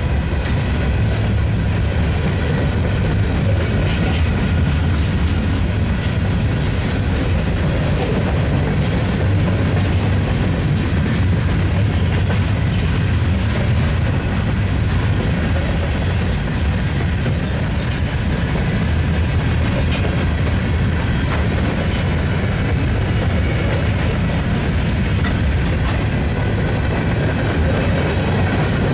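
Freight train cars rolling past with a steady rumble and wheel clatter, and a brief high wheel squeal about halfway through.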